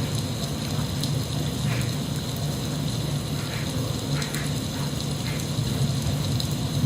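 Steady rain falling, with a low rumble underneath and a few faint drips.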